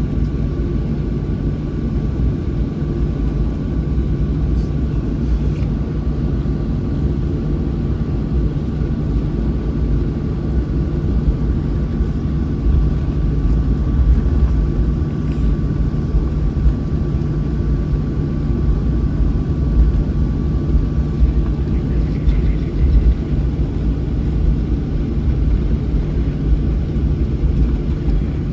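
Boeing 737 engines idling while the airliner taxis, heard inside the passenger cabin: a steady low rumble with a faint steady whine over it.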